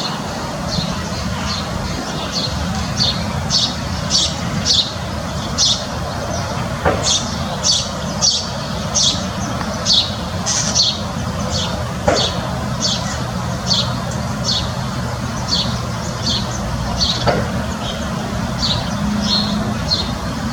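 A small bird chirping over and over, short high chirps about two a second, over a steady low rumble in the background.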